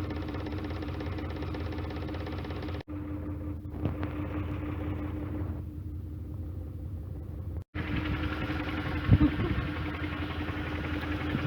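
Narrowboat diesel engine running with a steady hum. It cuts out abruptly for an instant twice and comes back. There is a brief low thump about nine seconds in.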